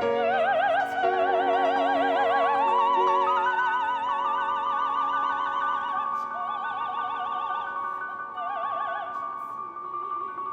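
Operatic singing: a singer holds long notes with a wide vibrato, stepping up to a higher sustained pitch a couple of seconds in, over held accompaniment notes. The voice fades near the end.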